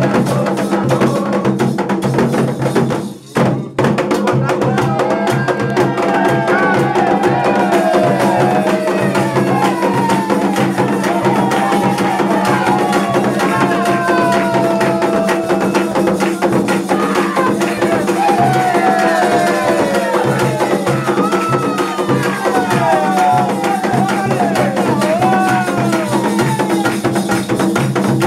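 Candomblé song for Xangô: voices singing a gliding melody over drums and a struck wood-block-like percussion that keep a steady rhythm. There is a brief dropout about three seconds in.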